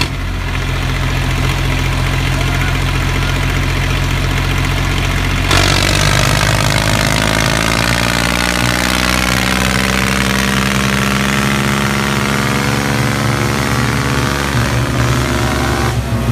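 A motor running steadily with a deep hum. About five and a half seconds in it gets a little louder and harsher, and its pitch starts to waver up and down as if under changing load.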